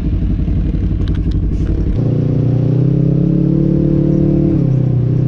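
Polaris RZR side-by-side's engine running as it drives off: a low rumble, then about two seconds in the engine note steps up and holds, climbing slightly before easing back near the end. A few sharp clattering knocks about a second in.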